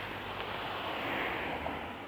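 Road traffic: a vehicle passing on an asphalt road, its tyre and engine noise rising to a peak a little after a second in, then fading.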